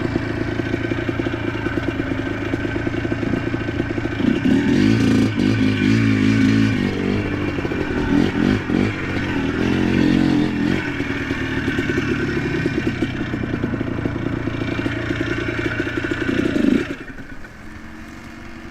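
ATV engine running and revving, with two louder bursts of throttle in the middle. About a second before the end it drops sharply to a much quieter steady running.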